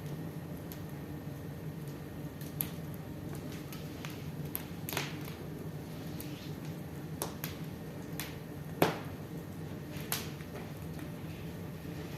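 Wood fire crackling in a fireplace: irregular sharp pops and snaps, about ten of them, the loudest nearly 9 seconds in, over a steady low hum.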